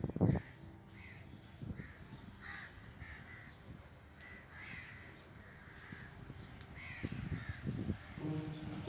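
Crows cawing, a run of short calls one after another, over faint plucked-string music that grows louder near the end.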